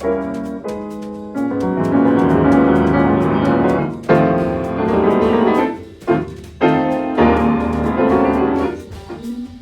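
Piano music: chords and melodic phrases, each struck with a sharp attack and left to ring, with a few short breaks between phrases.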